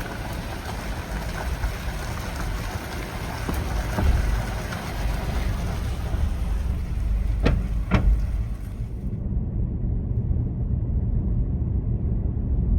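Steady low road rumble of a car being driven, heard from inside, with two short knocks about half a second apart a little past the middle.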